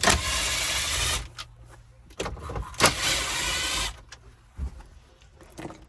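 A small electric motor whirring in two runs of about a second each, the second starting nearly three seconds in, with light handling clicks between them.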